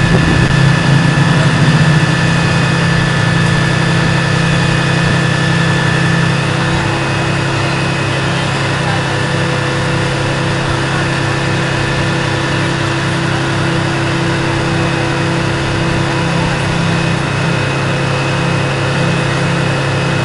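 Diesel engine of a Scania fire engine idling steadily, with a thin high whine that fades out about six seconds in.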